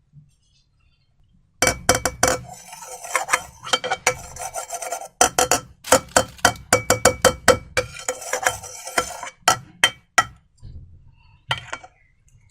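Slime being worked by hand: rapid crackling and clicking in two long runs with a short break about five seconds in, and a few last clicks near the end.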